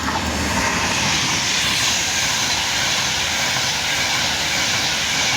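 Avanti West Coast Class 390 Pendolino electric train passing along the platform: a loud, steady rushing noise of wheels on rail and displaced air.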